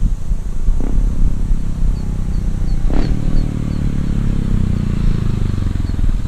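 Motorcycle engine running, with two sharp cracks about one and three seconds in.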